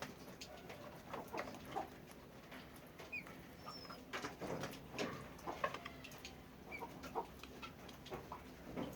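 Chickens clucking in short, scattered calls, with a few brief high chirps among them.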